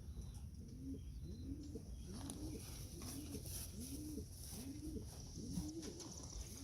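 Domestic pigeon cooing: a steady run of about eight short coos, each rising and then falling in pitch, roughly one every three quarters of a second.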